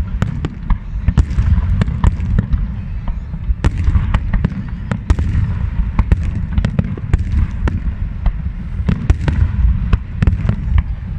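Large fireworks display with a rapid, continuous run of bangs and crackles over a deep rumble of shell bursts.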